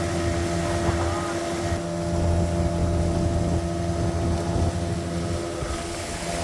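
Small boat's outboard motor running with a steady drone.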